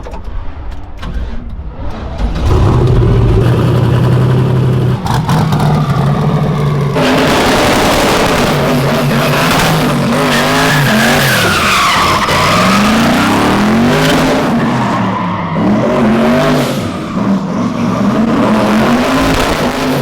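A drift car's engine holding a steady note, then from about seven seconds in revving up and down hard while the tyres squeal and skid.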